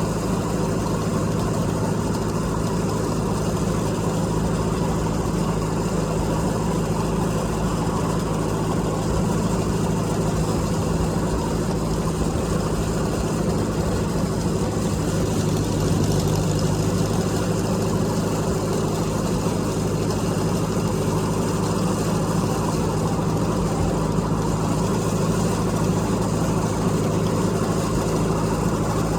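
Tractor engine running steadily at a constant speed, heard close up from the tractor itself.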